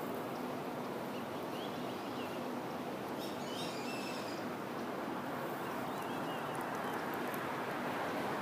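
Steady outdoor background noise with faint, high bird chirps a few times, clearest about three to four seconds in.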